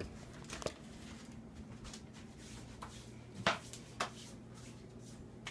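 A few light knocks and clicks of things being handled, the sharpest about three and a half seconds in and another just after, over a faint steady low hum.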